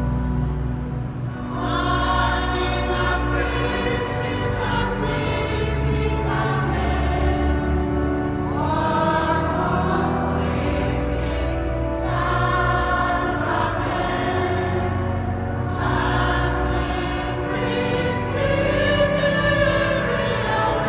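A mixed church choir singing a sacred choral piece over long held bass notes, in phrases that swell and change pitch every few seconds.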